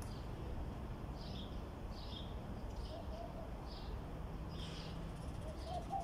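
A small bird chirping over and over, a short high chirp about once a second, over a steady low background rumble.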